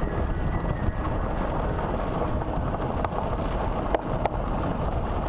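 Golf cart under way on a ride, its running noise steady and loud with rattling and a few sharp knocks about three to four seconds in.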